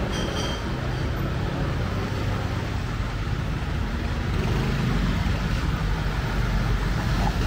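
Vehicle engine idling with a steady low rumble that grows a little louder in the second half, over general street noise.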